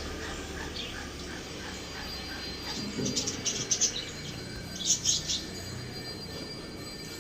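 Birds chirping in short rapid bursts, with a cluster of high chirps about three seconds in and another about five seconds in.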